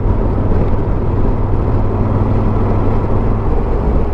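Motorcycle riding at a steady speed, heard from the rider's helmet camera: a steady low engine drone under an even rush of wind and road noise.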